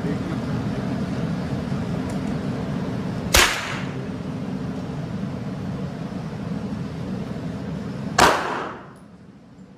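Two gunshots at a shooting range, about five seconds apart, each with a short ringing echo. A steady low hum underneath drops away shortly after the second shot.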